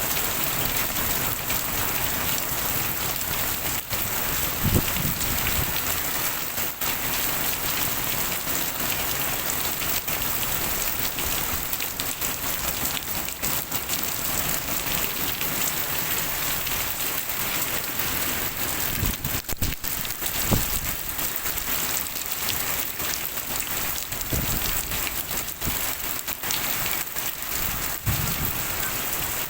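Very heavy rain falling steadily, an even hiss of drops, with a couple of short low thumps about five and twenty seconds in.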